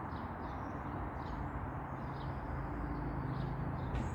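Steady rumble of road traffic, with a low vehicle engine hum swelling between about two and three and a half seconds in, and small birds chirping throughout.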